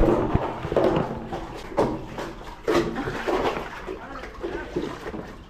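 Seawater rushing and splashing in a strong current, coming in uneven surges.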